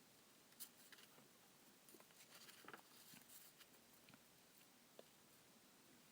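Faint snips and rustling of scissors cutting through an adhesive-backed suede sheet. There is a sharp click shortly after the start, scattered small clicks and rustles in the middle, and one more click near the end.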